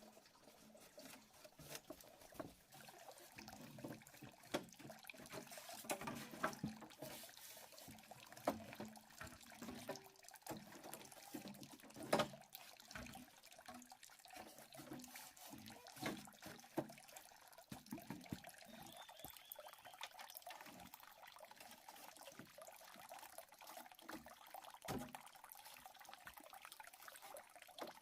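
Shallow stream water sloshing and trickling, with many small irregular splashes and clicks, and one sharper knock about twelve seconds in.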